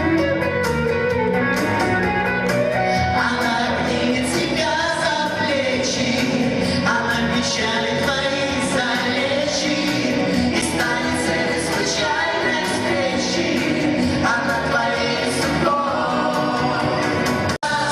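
Live pop band playing a song, with singing over the accompaniment; the sound drops out for an instant near the end.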